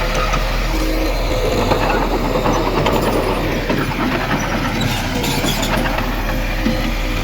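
Crawler bulldozer running steadily, its diesel engine droning with scattered metallic clatter from the tracks.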